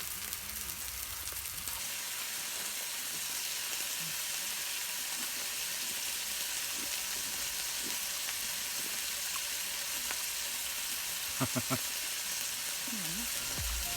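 Meat frying in a hot pan: a steady sizzling hiss of spitting fat.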